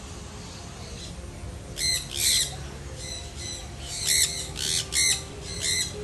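Birds squawking: a string of loud, harsh calls in quick succession, starting about two seconds in.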